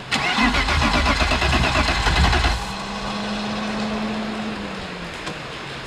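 Starter cranking a BMW E36 engine for about two and a half seconds without it firing, then stopping abruptly; a quieter steady hum follows. The engine won't start after a head gasket job, which the owner suspects is a fuel problem.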